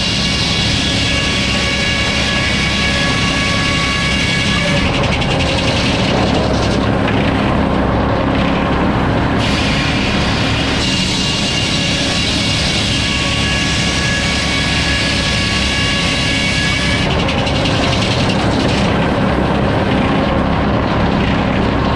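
Sawmill running steadily while sawing lumber. A higher-pitched whine with extra hiss rises over it twice, about six seconds each time, once near the start and again about halfway through.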